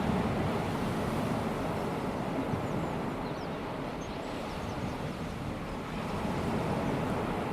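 Small waves of a calm sea washing onto a sandy beach, swelling at the start and again near the end.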